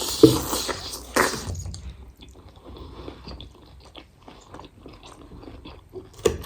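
Close-up sounds of a person eating a big mouthful of chicken keema noodles. Two louder noisy mouth sounds in the first second and a half, then a run of small wet clicks of chewing.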